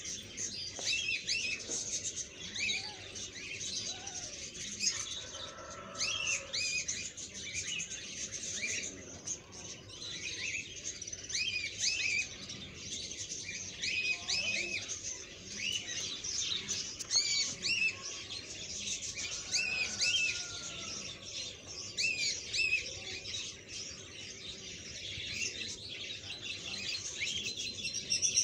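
Small birds chirping continuously: many short, quick, high chirps overlapping one another.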